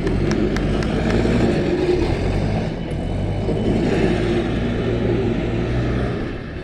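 Diesel engine of an ACE AX-124 backhoe loader running steadily under load as the machine manoeuvres.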